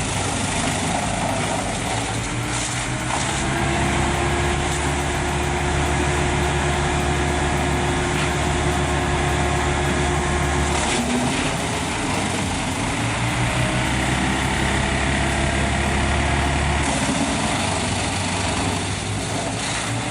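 A large engine running steadily, its low drone shifting in note a few times, about 3, 11 and 17 seconds in.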